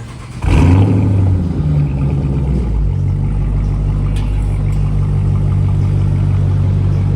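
Dodge Challenger engine with a muffler delete starting up about half a second in. It fires with a sudden loud flare, then settles into a steady idle by about three seconds.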